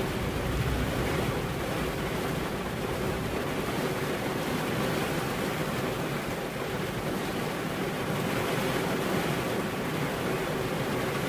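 Steady rain falling, an even continuous hiss, with a low rumble that is stronger in the first second or two.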